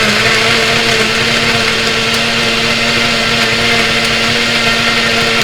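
Electric blender running steadily at one pitch, its jar jam-packed with ice cream, crushed mix-ins and a little milk to make a Blizzard-style shake.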